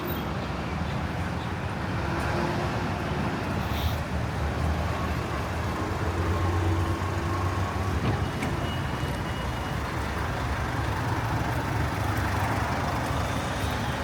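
Steady motor traffic noise on a city street, with a low vehicle hum throughout and a brief high tone about eight seconds in.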